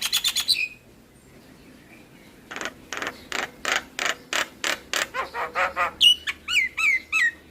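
Javan myna (jalak kebo) singing: a quick run of clicking notes, a short pause, then a string of harsh, creaky notes at about four a second, ending with several quick hooked whistles.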